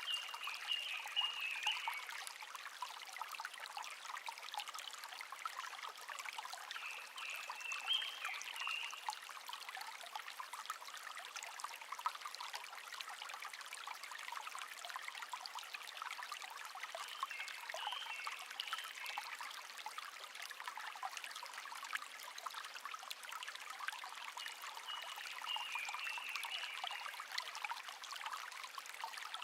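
Shallow babbling brook trickling steadily, with a small wild songbird singing short warbling phrases four times, about every eight seconds.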